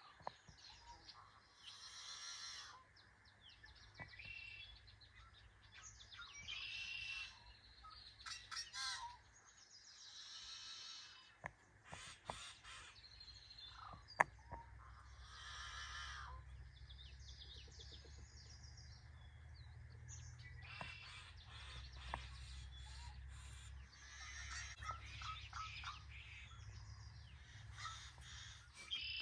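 Wild birds calling over and over in short, harsh calls. There is a single sharp click about fourteen seconds in, and a low rumble underneath in the second half.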